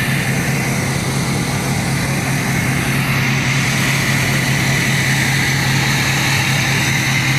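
A steady mechanical drone: a constant low hum over an even hiss, with no change in pitch or level.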